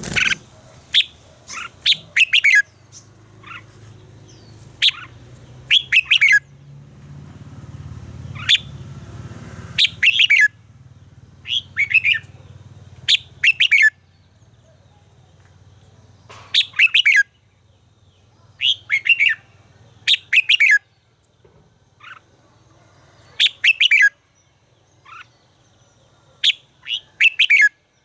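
Red-whiskered bulbul singing: short, loud bursts of quick warbled notes, repeated every second or two with brief gaps between. A low hum runs underneath through the first half.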